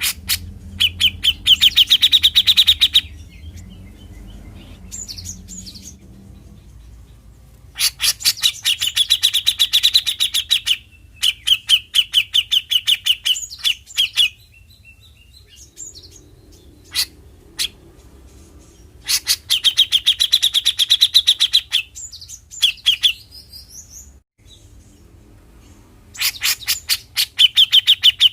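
Grey-cheeked bulbul (cucak jenggot) giving its 'besetan' song: loud bursts of fast, evenly repeated notes, each burst lasting two to three seconds, about five times with short pauses between.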